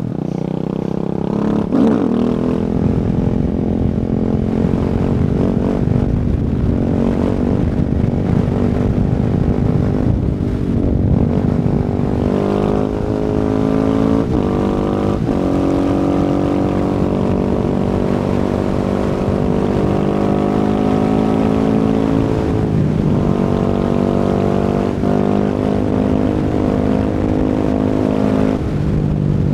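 Husqvarna 701 single-cylinder engine breathing through an Akrapovic exhaust while riding. It runs steadily for long stretches, and its pitch rises and breaks several times as the bike accelerates and shifts gears.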